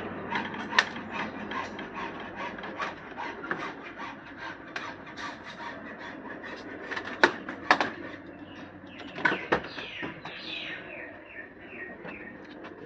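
Small birds chirping, with a run of short falling notes near the end. A few sharp clicks or knocks come in the middle.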